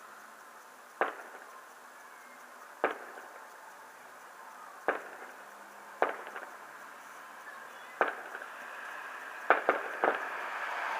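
Fireworks going off: about eight sharp bangs at irregular intervals, each with a short echoing tail, three of them in quick succession near the end. A steady hiss underneath grows louder towards the end.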